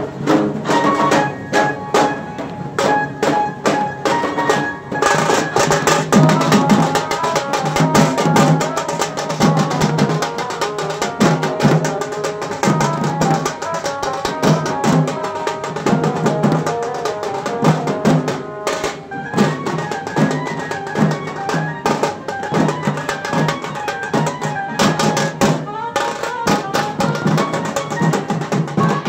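Tasa drum band playing a fast, dense drumming rhythm, with a melody line carried over the drums.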